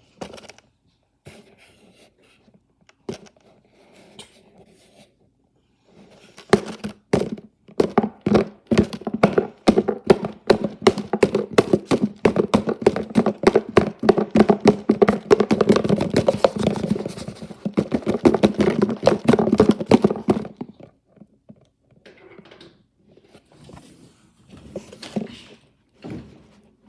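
Washing machine knocking and banging hard, many hits a second over a steady hum. The knocking builds about six seconds in and stops abruptly around twenty seconds, with scattered single knocks before and after.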